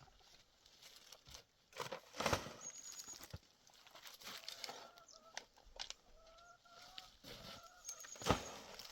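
Chickens clucking in short, repeated calls about five to seven seconds in, among scattered knocks and rustling.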